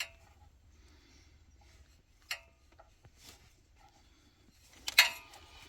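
Metal hand tools and bolts clinking as they are handled. There is a sharp clink at the start and another about two seconds in, then the loudest clatter near the end, ringing briefly.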